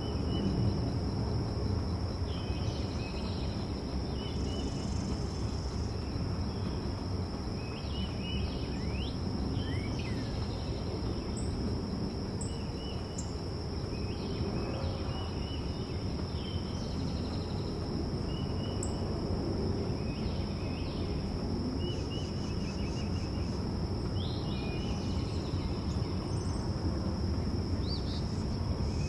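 Backyard ambience: a steady high insect trill with short bird chirps every few seconds over a low background rumble.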